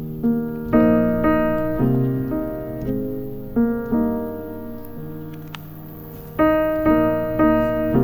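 Soft piano music: chords and a simple melody played in two phrases, with a pause of quieter held notes in between.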